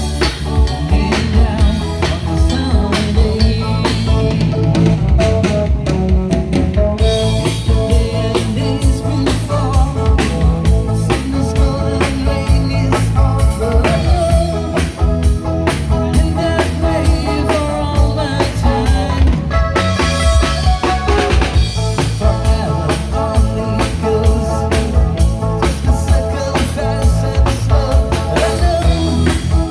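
Live band music: a rock cover with a drum kit keeping a steady beat of kick, snare and rimshots under pitched instruments.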